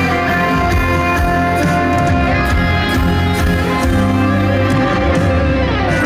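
Live pop concert music from the band: an instrumental passage with a steady bass and held notes.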